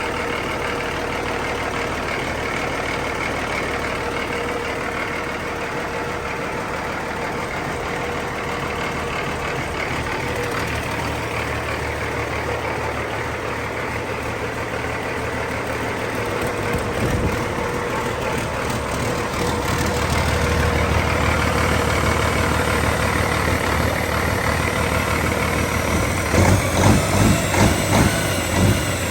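2005 Cummins ISX 15-litre turbocharged six-cylinder diesel running on a test run, steady at first, then growing louder and deeper about two-thirds of the way in. A run of quick pulses comes near the end.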